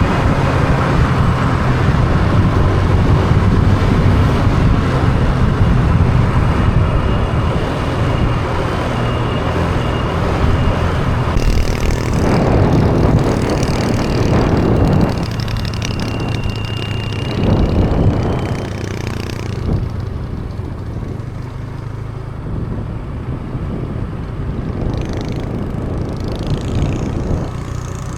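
Small motorbike engine running while riding, with wind and road noise. The sound eases off after about 20 seconds.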